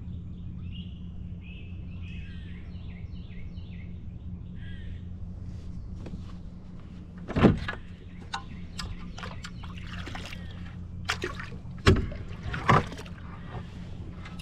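Knocks and light clatter on a kayak, three of them loud, over a steady low hum. A small bird chirps repeatedly during the first few seconds.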